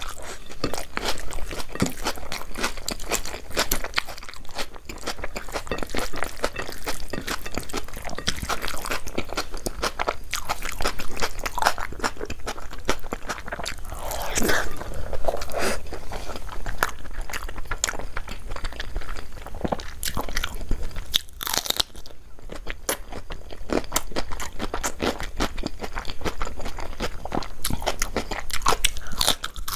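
Close-miked chewing and biting of food: a continuous run of crunchy, clicky mouth sounds, easing off briefly about two-thirds of the way through.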